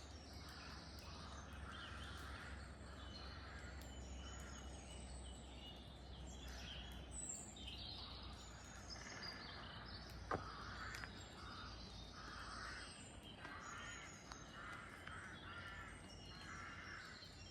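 Faint mixed chorus of woodland birds singing and calling, many short phrases overlapping, with a single sharp click about ten seconds in.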